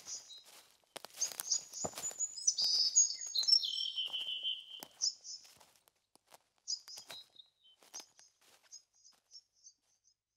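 Small birds chirping and trilling in short, high phrases, with a few faint knocks among them. The calls grow sparser and fainter and fade away near the end.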